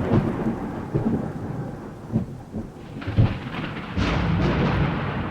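Thunder rolling in a storm: a rumble that fades, sharp cracks about two and three seconds in, then a fresh rumble building near the end.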